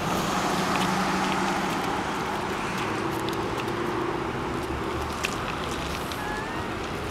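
An engine running steadily, its low hum shifting to a higher pitch partway through.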